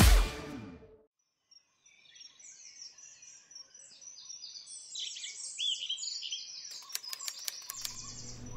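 Birds chirping, with quick repeated high chirps and calls overlapping, rising in after background music fades out about a second in. A few sharp clicks come near the end.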